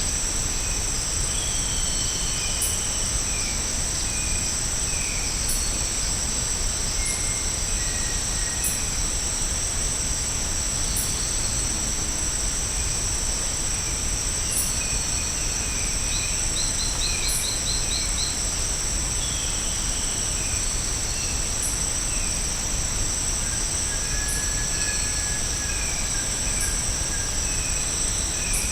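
Tropical rainforest ambience: insects keep up a steady high-pitched drone, with faint sharp ticks every couple of seconds, while birds give scattered short calls, including a quick run of about six notes a little past halfway.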